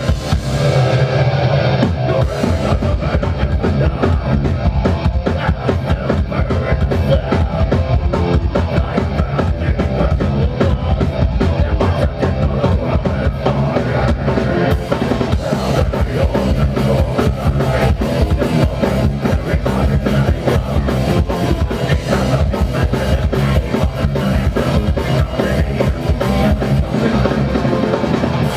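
Progressive death metal band playing live: a drum kit with rapid, dense bass-drum strokes under distorted guitars and bass, loud and continuous.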